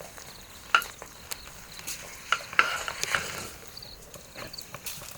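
Food being stirred in a cooking pot: a spoon clicks and scrapes against the pot at irregular intervals over a faint sizzle.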